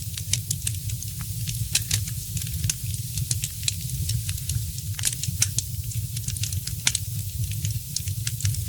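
Wood fire in a fireplace crackling: frequent irregular sharp snaps and pops, a few louder than the rest, over a steady low rumble.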